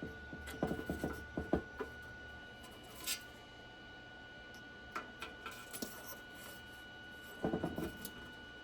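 Light clicks, knocks and rubbing of small parts being handled, in short clusters, over a faint steady high whine.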